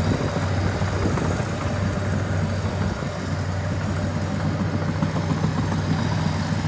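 Heavy diesel engine idling steadily, a low even hum with no change in speed.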